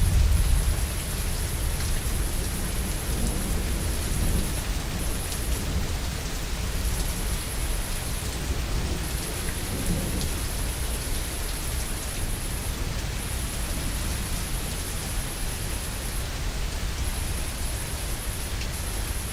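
Steady rain falling, with a low rumble of thunder at the start that fades away within the first couple of seconds.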